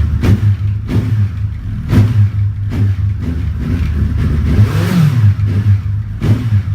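Suzuki Hayabusa's inline-four engine idling through its exhaust, blipped several times with short sharp throttle stabs, and revved up and back down once about five seconds in.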